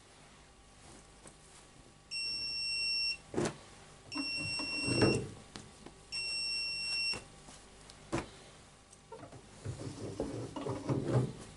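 Bosch WAB28220 washing machine beeping three times, each beep about a second long and two seconds apart: the end-of-program signal. Sharp clicks and knocks fall between and after the beeps, with rustling near the end.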